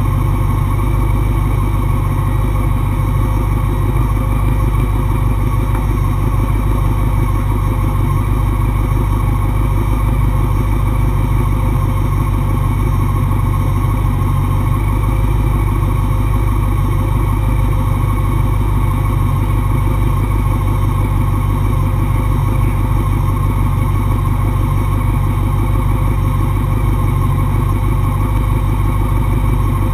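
600 cc sport motorcycle engine running loudly at a steady pitch, with no clear revving up or down.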